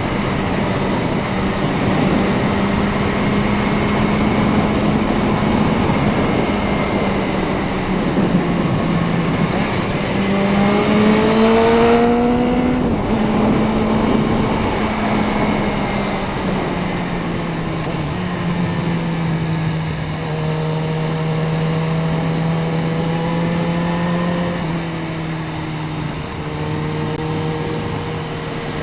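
Suzuki Bandit 650N's inline-four engine running under way, with wind rush over the rider's camera. The engine revs up about ten seconds in and breaks off briefly, as at a gear change, near the twelve-second mark. Its pitch then steps down twice to a lower, steady note.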